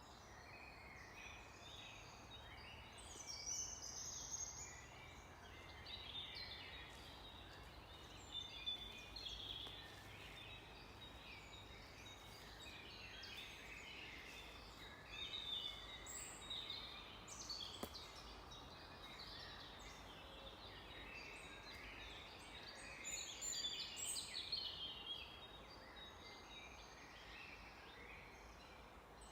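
Forest bird chorus: several birds singing and calling at once, a faint, dense overlap of short chirps and trills, over a low steady rumble.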